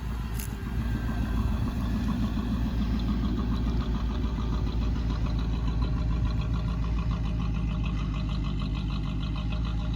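Car engine idling with a steady low rumble and an even pulse. A brief sharp click about half a second in.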